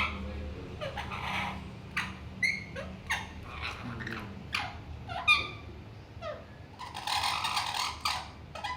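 Parrots chirping and squawking: a run of short calls that fall in pitch, with one longer, harsh screech about seven seconds in.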